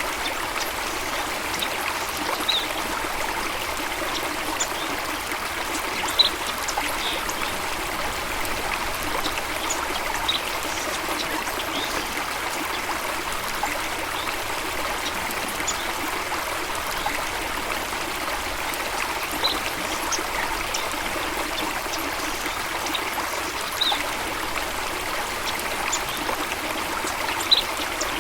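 Flowing water, a steady even rush, with short high bird chirps every few seconds.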